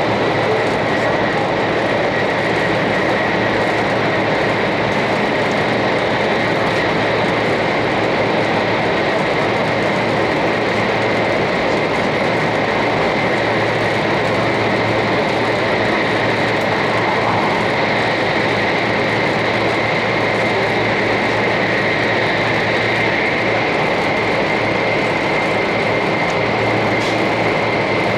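Interior running noise of a 500 Series Shinkansen train: a steady, even rush of rolling and air noise with a faint steady high whine above it.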